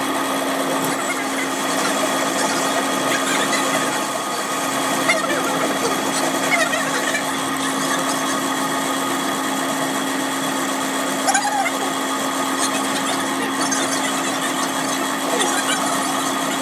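A workshop machine running steadily with a constant hum, with a few light clicks and knocks over it.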